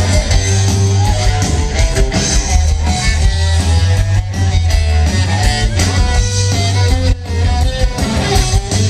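Live rock band playing loudly, with a distorted, gliding lead line from an electric cello over heavy bass and drums.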